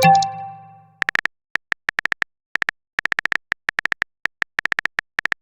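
Phone keyboard typing sound effect: short, sharp clicks in quick irregular runs, as if text is being typed. At the start a ringing message-notification chime fades out within about a second.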